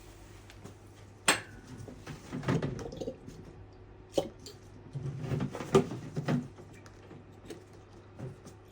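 Coolant being poured into a 1984 Honda CR250's radiator, with a sharp click about a second in and scattered knocks and clatter from handling the bottle and filler.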